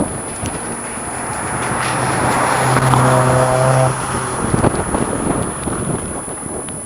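Mitsubishi Lancer IX 2-litre four-cylinder engine through a straight-through sport exhaust, revving up and getting louder to a held rev about three seconds in, then dropping off sharply just before four seconds, with a few short pops from the exhaust after the throttle closes.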